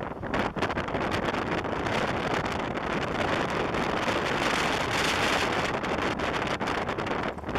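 Wind rushing and buffeting over the microphone of a camera on a motorcycle riding at speed, with the bike's running and road noise underneath.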